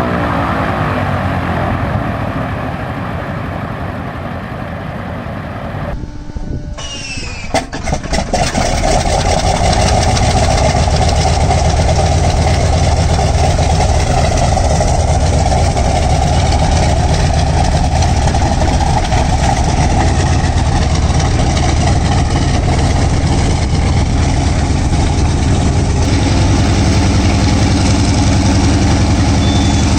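Antonov An-2's nine-cylinder Shvetsov ASh-62 radial engine cold starting: a short rising whine and a few irregular pops as it fires, then it catches and runs steadily and loudly with a deep rumble. Before that, about six seconds of another engine's sound falling in pitch.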